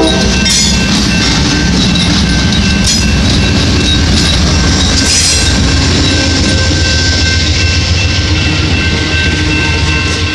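A passenger train passing close by: three GE P42DC diesel locomotives and then the baggage car and bilevel coaches rolling past, with a loud, steady rumble of engines and wheels on the rails. Brief high clattering bursts come near the start and again about three and five seconds in.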